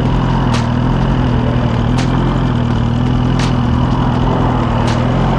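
2023 Suzuki GSX-R1000's inline-four engine idling steadily, with faint ticks about every second and a half.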